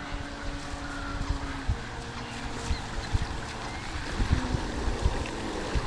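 Wind buffeting the microphone, with irregular low thumps, over a faint steady hum that fades about a second and a half in.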